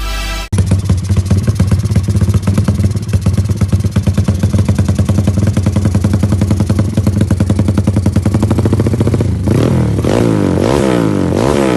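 Motorcycle engine running through a Pekajaman aftermarket muffler, idling with a steady pulsing exhaust note. From about nine and a half seconds in, the throttle is blipped repeatedly, the revs rising and falling quickly.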